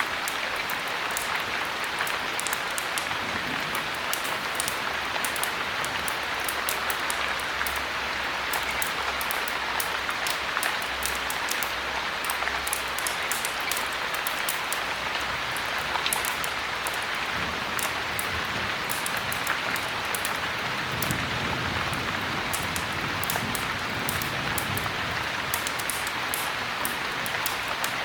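Steady heavy rain, an even rushing hiss with frequent sharp little ticks throughout.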